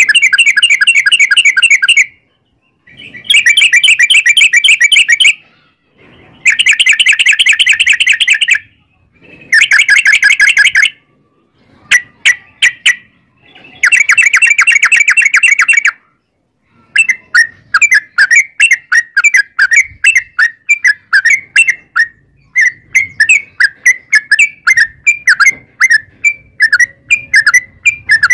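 Yellow-vented bulbul (trucukan) singing loudly in rapid rolling trills of about two seconds each, separated by short pauses. About halfway through it switches to a long run of separate chirps, two or three a second.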